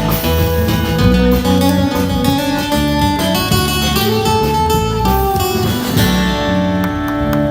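A busker band's live music without singing: guitar strumming over a bass line, with notes held steadily.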